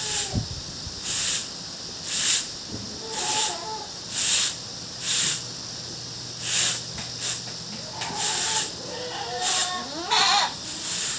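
Goats bleating a few times, over a run of swishing strokes at about one a second from the goat shed being cleaned.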